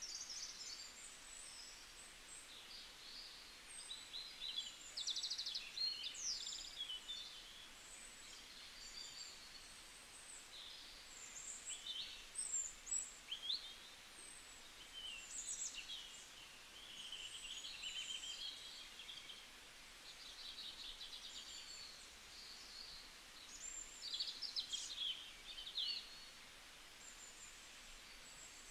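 Birds chirping: many short high calls, quick sliding notes and rattling trills, coming and going in loose bursts.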